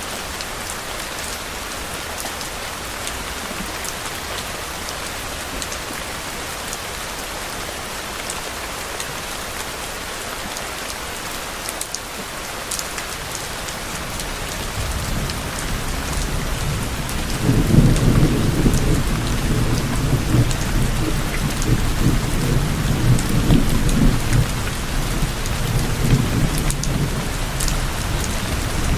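Steady rain falling, with a low roll of distant thunder that builds about halfway through, peaks shortly after and keeps rumbling to the end.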